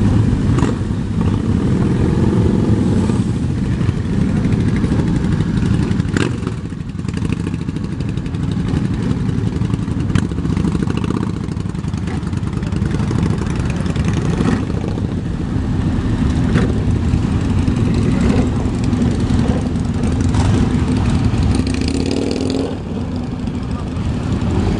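A steady stream of motorcycles riding past, engines running with occasional revving, over indistinct crowd voices.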